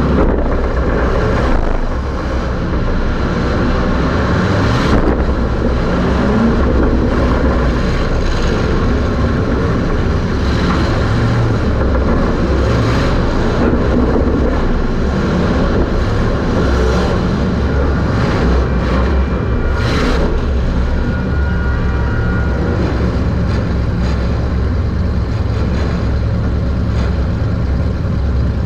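Super Stock race car engine running hard under racing load, heard from inside the car with road and chassis noise mixed in, plus a couple of brief sharper knocks or rattles.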